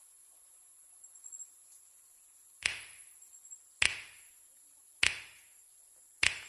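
Four sharp knocks, evenly spaced a little over a second apart and each dying away quickly, over faint high-pitched chirping.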